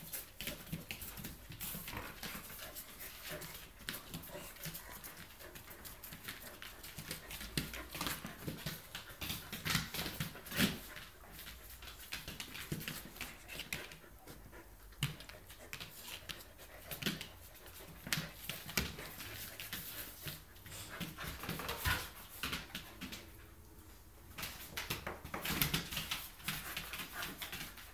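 A chow chow and a Samoyed play-fighting, with dog whimpers and panting over repeated scuffles and knocks that come in louder clusters several times.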